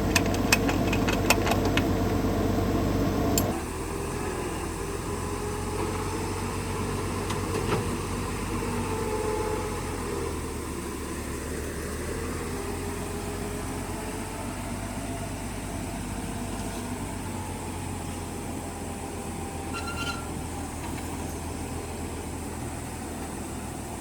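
Tractor engine idling steadily, with a few sharp clicks in the first second or so. About three and a half seconds in, the sound drops sharply in level and the idle carries on more muffled.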